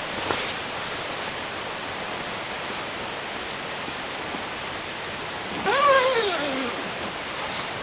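Steady hiss, with a short whine from a dog about six seconds in that rises and then falls in pitch.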